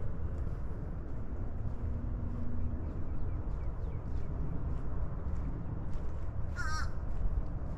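Footsteps walking along a trail, faint and about two steps a second, over a steady low rumble. A single short bird call comes about two-thirds of the way in.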